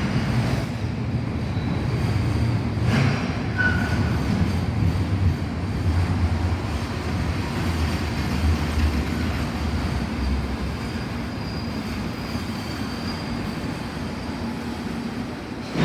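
Freight train running past on the rails: a steady rumble of wheels and wagons that eases off after about ten seconds, with a faint high wheel squeal.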